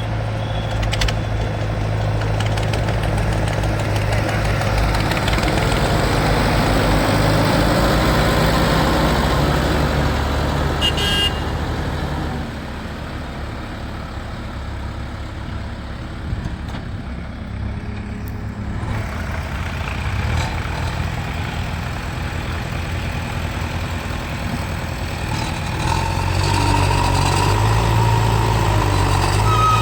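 JCB 3DX backhoe loader's diesel engine running steadily while the machine works. It runs louder for the first dozen seconds, eases off through the middle, and picks up again near the end, when a higher steady whine joins it.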